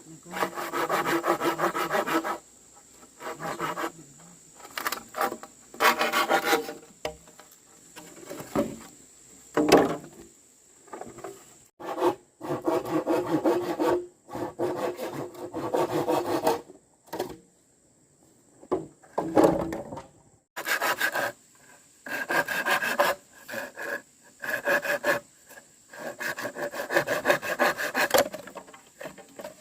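Hand saw cutting through wood, working in bouts of rapid back-and-forth strokes lasting a second or a few seconds each, with short pauses between them.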